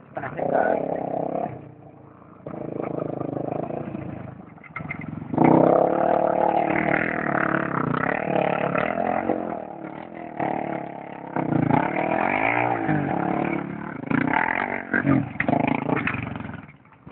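Motorbike engine revving and easing off as it is ridden over rough ground, quieter at first, then much louder about a third of the way in, with its pitch dipping and climbing again near two-thirds of the way through.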